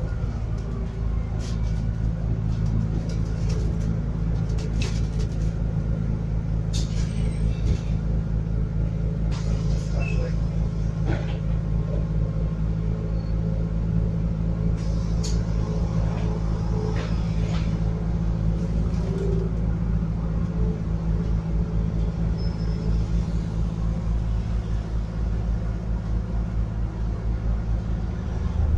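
Biogas Scania N280UD double-decker bus heard from inside the saloon: a steady low engine and drivetrain rumble, with a few brief rattles from the body.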